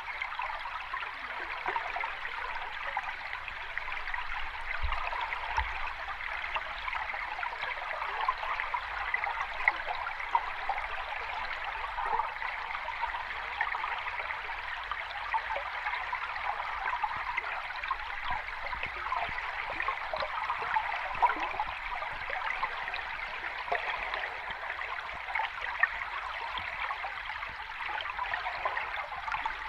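Sea water rushing and fizzing steadily, with fine crackling and small splashes throughout and no distinct rise and fall of breaking waves.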